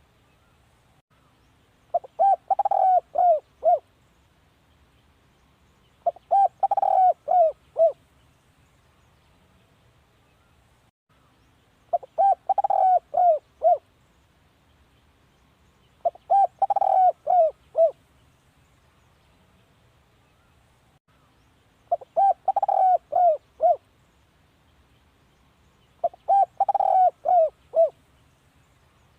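Spotted dove cooing: a phrase of five or six quick coos, repeated six times about every four to six seconds.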